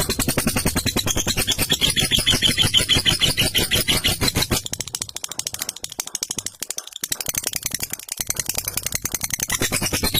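Lovebird in a long 'ngekek' chatter: a fast, rattling run of harsh repeated notes, strong at first and weaker from about four and a half seconds in.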